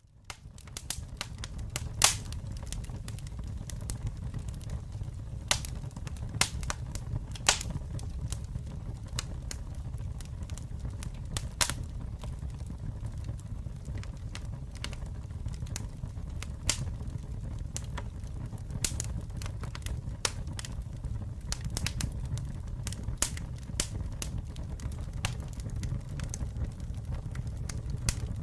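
Campfire burning, a steady low rumble of flames with irregular sharp crackles and pops from the burning wood, fading in at the start.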